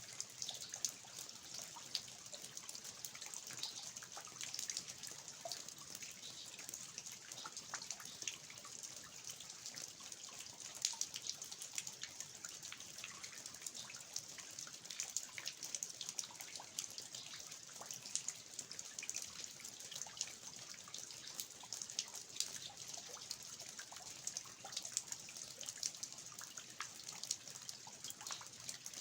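Steady rain falling, with water dripping from the eaves (nakseunmul) in frequent irregular drops and splashes over an even hiss.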